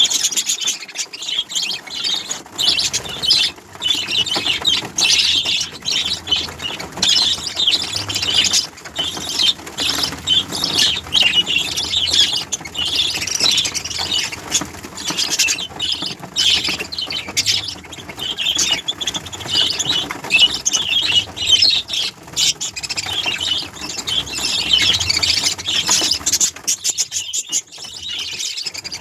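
A group of small birds chirping and chattering continuously, many quick high calls overlapping.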